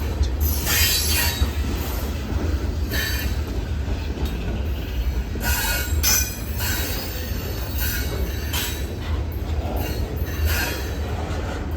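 Train wheels squealing and screeching against the rails in short, repeated bursts as railcars roll past, over a steady low rumble.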